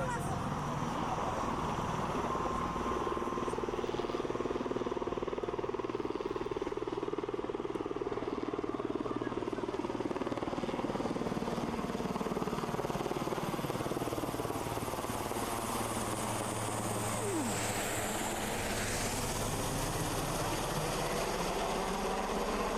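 Marine Corps HMX-1 helicopter's rotors and engines running steadily, a continuous fast pulsing rotor beat.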